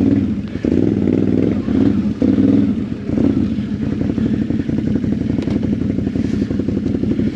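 ATV engine running close by, its throttle opened for the first few seconds and then settling back to a steady idle.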